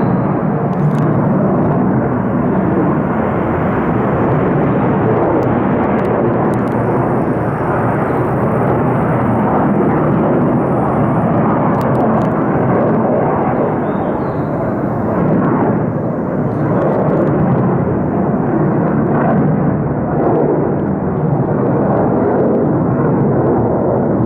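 F-15 fighter jet's twin turbofan engines giving a tremendous, steady roar on takeoff, loud and unbroken throughout.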